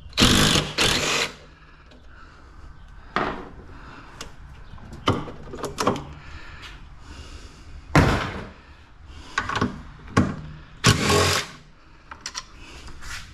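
Irregular metal clanks, scrapes and rattles of sheet-metal appliance parts being unbolted and pulled apart with hand tools. There are about eight separate bursts of clatter, some brief and some lasting about a second.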